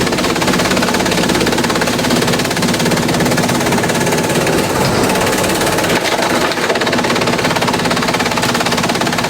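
Industrial bamboo shredder running under load: a loud, steady, dense clatter of rapid impacts over a constant machine hum.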